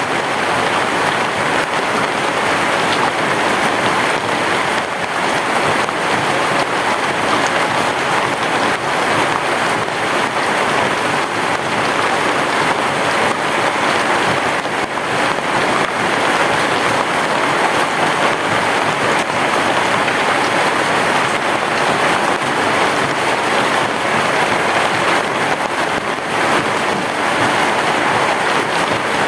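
Heavy rain pouring steadily, a dense even hiss with no thunder heard.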